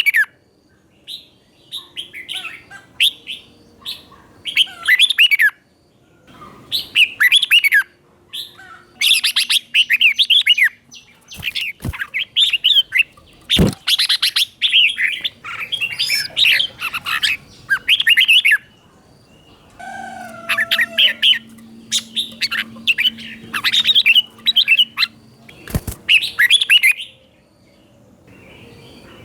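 Red-whiskered bulbul singing short, bright warbling phrases one after another with brief pauses between them. Three sharp clicks come in the middle and near the end.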